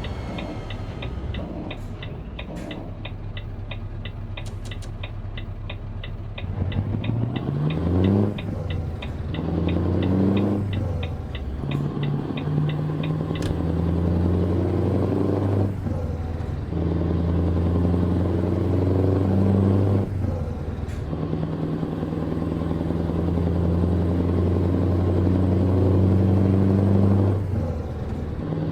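Truck's turn-signal indicator ticking steadily for about thirteen seconds over the diesel engine. The engine pulls away and climbs in pitch, with dips at each of several gear changes.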